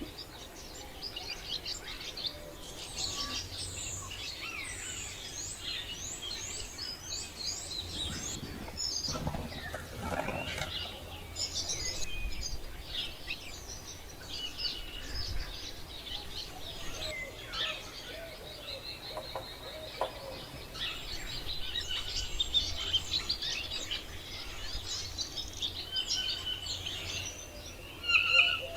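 A chorus of many birds chirping and calling over one another in quick, high, overlapping notes, with one louder call just before the end.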